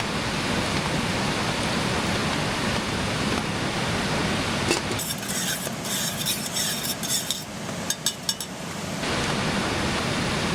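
Mountain creek rushing steadily, and for about four seconds in the middle a spoon stirring and clinking in a cup, mixing powdered Tang drink.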